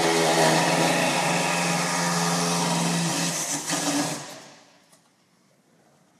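A loud machine running steadily with a constant hum, winding down about four seconds in and leaving near silence.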